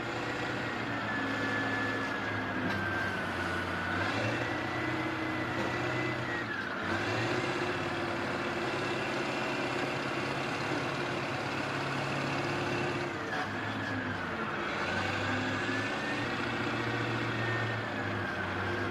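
Heavy-equipment engine running under changing load, its note stepping up and down every few seconds, with a thin high whine that rises and falls along with it.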